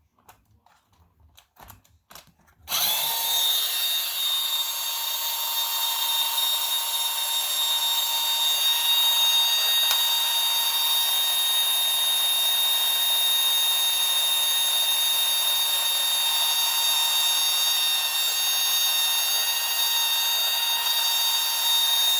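A battery-operated bump-and-go toy airplane running. After a few faint clicks, its small electric motor and gears start about three seconds in and whir steadily at one pitch.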